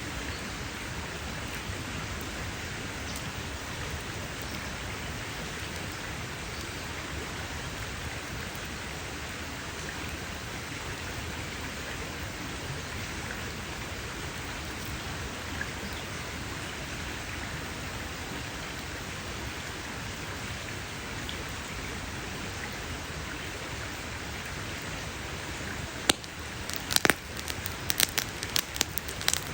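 Campfire burning with a steady hiss. Near the end comes a quick run of sharp crackles and pops.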